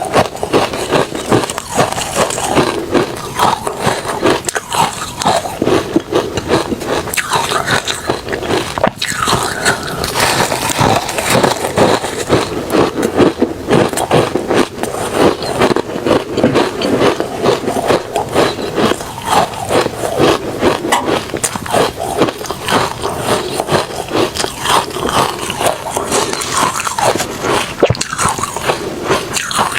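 Refrozen crushed ice and shaved ice being bitten and chewed: a dense, continuous crunching made of many quick cracks, with no pauses.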